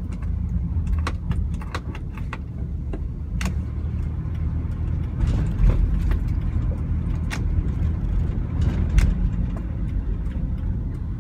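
A truck driving in city traffic: a steady low engine and road rumble, with scattered light clicks and rattles.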